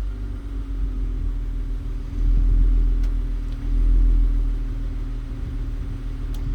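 Honda Accord's 3.0 V6 idling steadily through a Mugen aftermarket exhaust: a low, even exhaust rumble.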